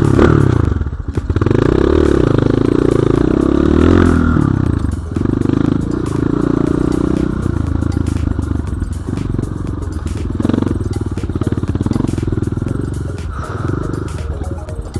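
BSE J1 enduro motorcycle engine revving and running under changing throttle, its pitch rising and falling in the first few seconds and then holding a steady pulsing drone.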